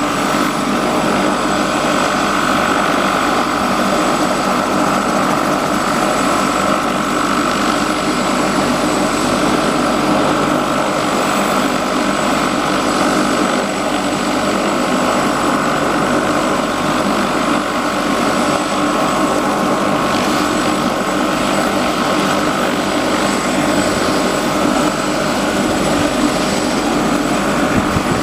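Helicopter's turbine engine running steadily after start-up, with a steady whine over the rotor and engine noise.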